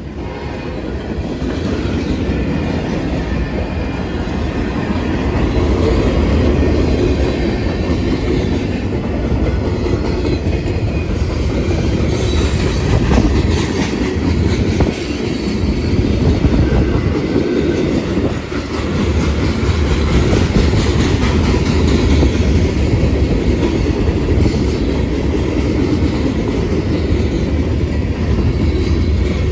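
Freight train cars rolling past, a steady heavy rumble with wheels clacking over the rail joints, growing louder over the first few seconds, with now and then a faint high wheel squeal.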